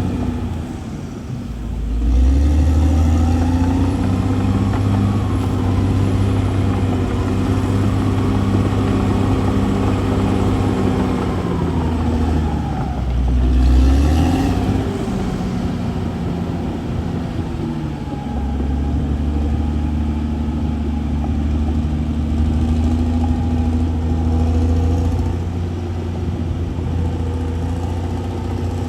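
CAT D6R bulldozer's diesel engine working under load, its pitch rising and falling as the revs change, with a dip and a louder swell about halfway through.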